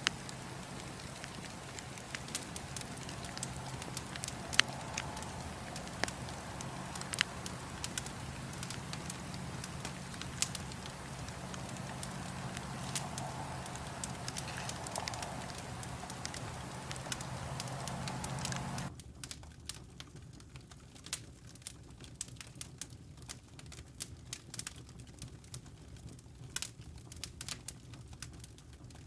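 Wood fire in a fireplace crackling, with frequent sharp pops. A steady rushing background with a low hum cuts out suddenly about two-thirds of the way in, leaving sparse crackles and pops over a quieter background.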